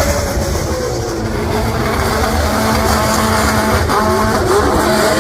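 Drift cars on track, engines revving up and down in repeated waves over a steady rushing noise.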